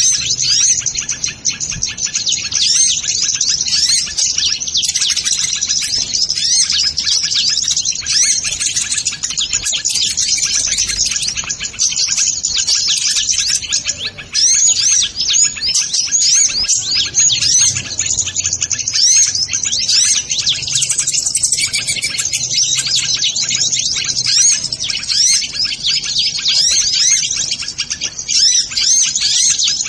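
Sunbirds chirping and twittering, many quick high notes overlapping without pause.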